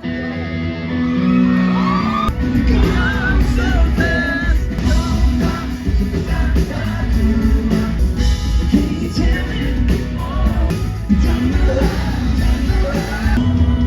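Live pop-rock band playing a song, with lead vocals over a steady drum and bass beat.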